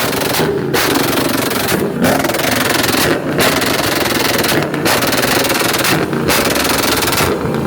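A car engine revved hard in repeated bursts through a very loud, raspy exhaust: about six blips of a little over a second each, with short drops between them. It is loud enough to leave a listener unable to hear.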